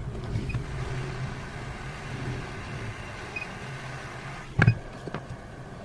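A steady low hum with a light hiss, broken by one sharp knock about four and a half seconds in and a lighter click half a second later.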